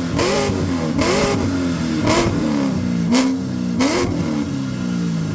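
A performance car's engine revved in about five quick blips, each rising and falling in pitch, with a short burst of exhaust crackle on each blip over the idling note.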